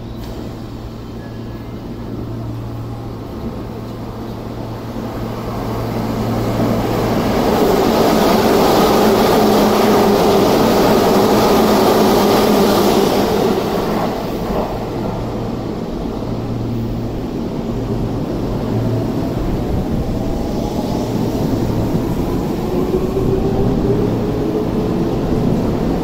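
Electric commuter trains at a station. A train's rumble and rush build to a loud peak about 8 to 13 seconds in, then ease. Near the end, an electric train's motor whine rises steadily in pitch as it gathers speed.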